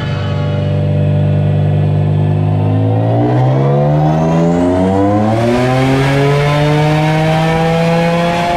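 Single-turbo Nissan 350Z's V6 pulling on a chassis dyno. It holds a steady low speed for about three seconds, then climbs steadily in rpm under throttle, and a loud rushing noise joins from about halfway as the revs rise.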